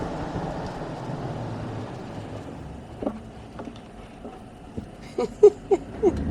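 Vehicle running, its steady road rumble fading over the first few seconds as it slows. Near the end come four or five short, sharp chirps in quick succession.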